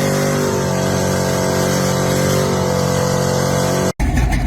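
Classic muscle car engine running steadily at a constant speed. It cuts off abruptly just before the end and another car engine starts.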